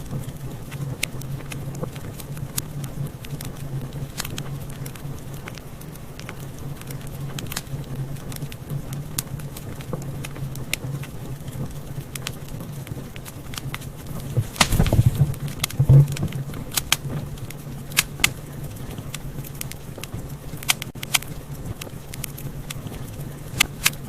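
Wood fire crackling in a fireplace: irregular sharp pops and snaps over a low, steady rumble of the flames, with a louder burst a little past halfway and a sharp pop a second later.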